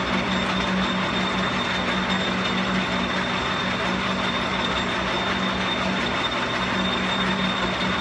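Metal lathe running steadily: an even mechanical drone with a constant low hum and a thin high whine.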